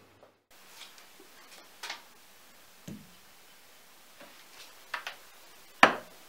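Light clicks and knocks of small objects being handled, about eight separate taps spread unevenly, with one duller thump about three seconds in and the sharpest click near the end.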